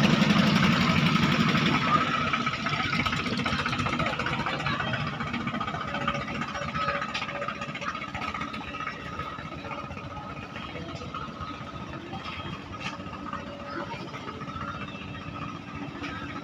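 Klotok river boat's engine running steadily, loud at first and fading away over several seconds.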